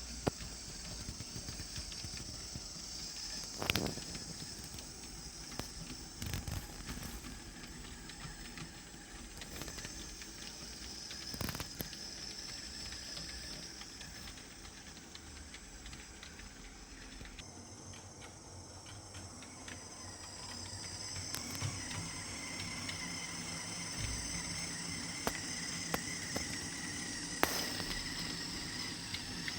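HO-scale brass three-truck Heisler model locomotive running along the track: a steady whirr from its small motor and geared drive, with scattered wheel clicks and a few louder clicks, as over rail joints or turnouts.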